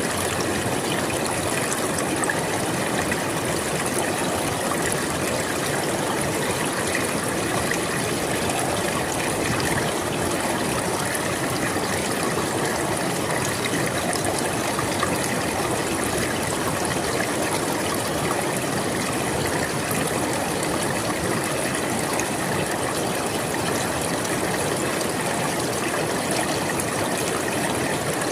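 Steady rush of a flowing river, water running continuously over rocks with an even hiss and no breaks.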